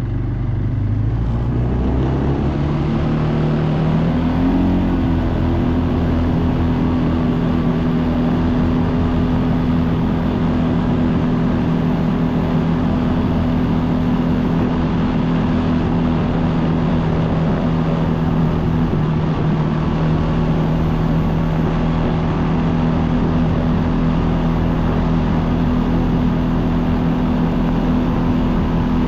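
ATV engine under way, its pitch climbing over the first few seconds as the quad speeds up, then running steadily at cruising speed.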